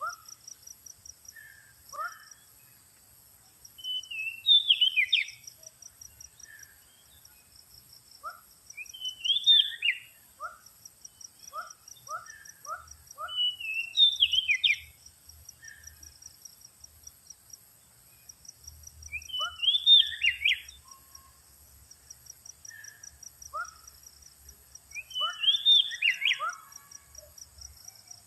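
Oriental magpie-robin (kacer) singing: loud phrases of whistled, falling notes about every five seconds, with short scattered notes between them. Under it runs a steady, fast-pulsing insect trill.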